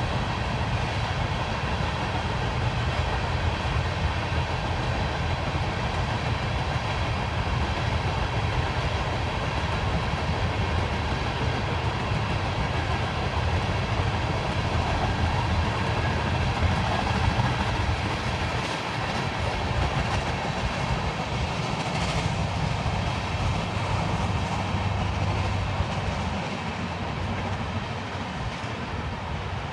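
Norfolk Southern freight train passing: a steady rumble of railcars rolling by, with a few sharp clicks from the wheels partway through. It eases slightly in level near the end.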